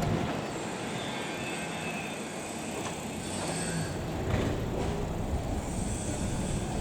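Keisei Line train running past a level crossing. The noise falls off within the first half second to a steady, moderate rumble, with faint high-pitched whines coming and going.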